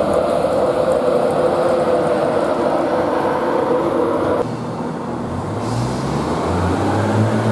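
Trains at a station: a loud, steady train noise with a held mid-pitched whine that cuts off abruptly about four and a half seconds in, then a low engine drone that builds up toward the end.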